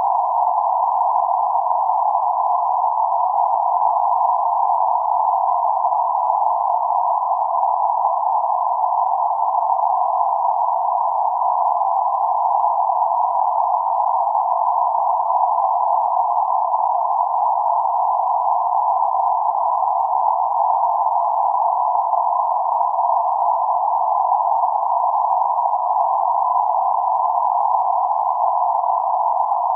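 Steady band-limited noise centred around 848 Hz: a narrow, even hiss with no low rumble or high sizzle, unchanging throughout.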